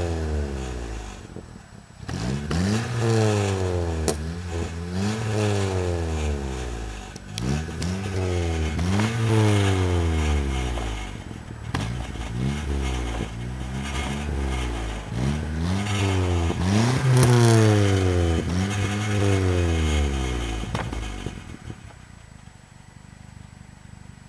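Car engine with a Magnaflow aftermarket exhaust revved in neutral, about ten quick blips of the throttle one after another, each rising and falling back. Near the end the revving stops and the sound drops off.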